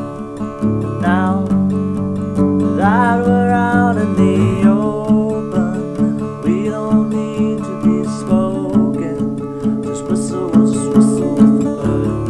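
Acoustic guitar strummed in a steady rhythm: an instrumental break between verses of a song, with a wordless melody gliding over the strumming in the first half.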